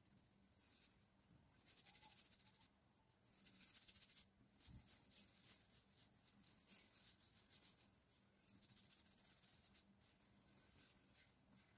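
Faint rustling of fingers rubbing through oiled hair and scalp during a scalp massage, coming in several bursts a second or more long with short pauses between.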